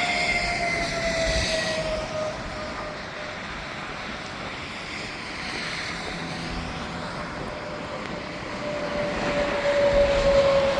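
Heavy trucks passing on an interstate highway, their engine and tyre hum dropping in pitch as each goes by. One is passing at the start and another comes through near the end, with steadier traffic noise between.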